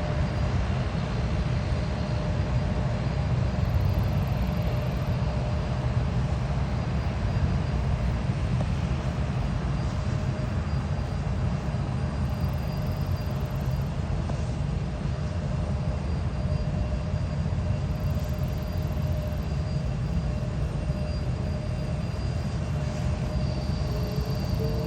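Jet airliner engines running steadily: a constant low rumble with a faint steady whine over it.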